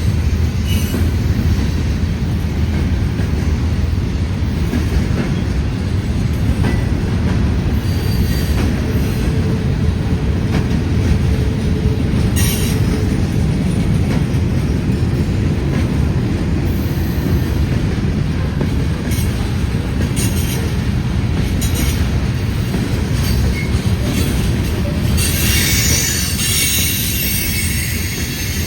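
CSX freight train rolling past, its cars giving a steady low rumble on the rails. A high, hissing wheel squeal rises in the last few seconds.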